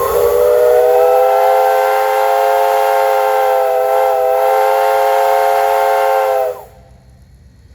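Steam whistle on a parading steam engine, sounding one long, loud blast as a chord of several notes that stops abruptly about six and a half seconds in.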